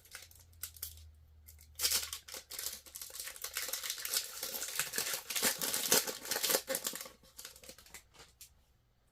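A trading card pack wrapper being torn open and crinkled: a dense crackling from about two seconds in until about seven seconds, then a few light clicks that die away.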